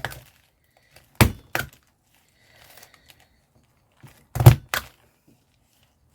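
Two pairs of sharp knocks, each pair less than half a second apart, about a second and about four seconds in, from craft materials and tools handled on a table. A faint rustle of paper comes between the pairs.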